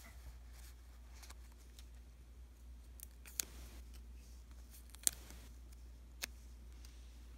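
Stickers and masking tape being handled for diary decorating: soft paper rustles with three sharp clicks or snips about halfway in and toward the end, the loudest a little after the middle.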